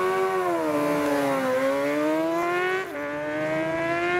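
Superbike racing motorcycle engine at high revs on a hill climb: the pitch rises, eases off, climbs again, and drops sharply with an upshift about three seconds in before pulling up once more.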